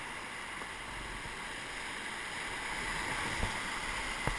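Steady rush of river whitewater around a raft in a rapid, an even hiss with no let-up, with two faint knocks near the end.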